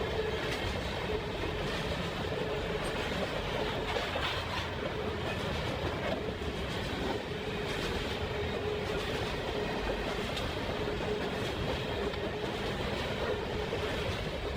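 Canadian National freight train rolling past steadily, its wheels clattering over the rails with a faint steady ring.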